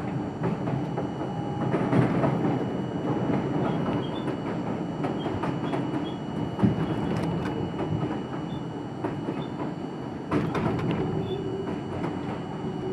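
R42 subway train running on the line, heard from inside the front car: steady running noise with wheels clattering over rail joints and a few sharp knocks.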